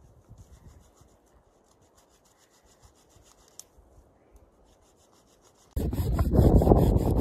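Quiet with a few faint knocks, then near the end a loud, continuous rasping on wood starts abruptly.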